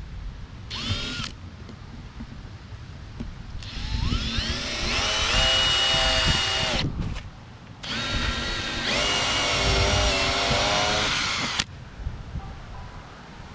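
Electric drill boring holes through a plastic hard case: a short trigger blip about a second in, then two longer runs, the first with a whine rising in pitch to a steady speed, each stopping abruptly.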